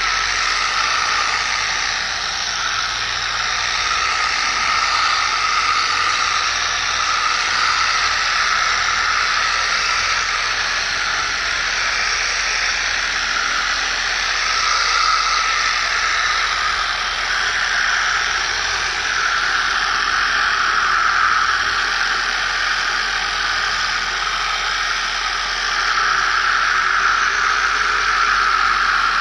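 Power sanding tool running steadily on the motorcycle's paintwork, sanding out scratches: an even, unbroken hiss.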